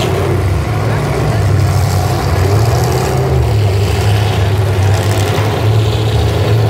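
Several demolition derby cars' engines running together on the track, a loud, steady low drone that swells and eases slightly as the drivers rev.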